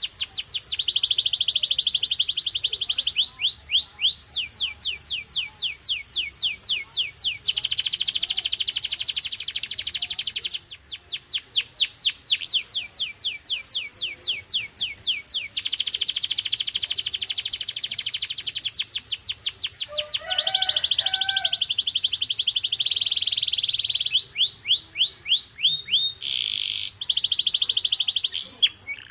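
Canary singing a long song made of phrases of rapidly repeated notes: fast trills alternate every few seconds with slower runs of sharp chirps. A short lower note breaks in about twenty seconds in.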